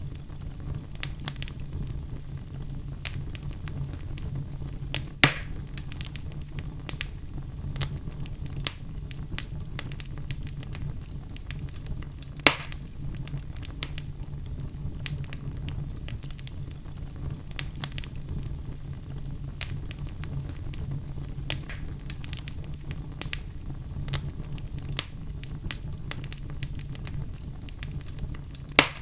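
Wood fire in a fireplace, burning logs crackling steadily over a low rumble, with frequent small snaps and a few louder pops, about five and twelve seconds in and again near the end.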